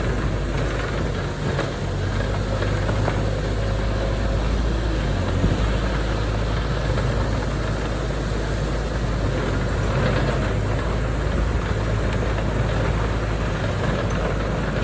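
Heavy diesel engine of earthmoving machinery running steadily at a low, even pitch, with a few faint knocks.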